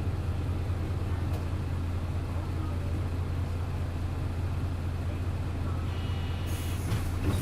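Hino Blue Ribbon city bus's diesel engine idling with a steady low drone, heard from inside the bus. Near the end comes a short hiss of air.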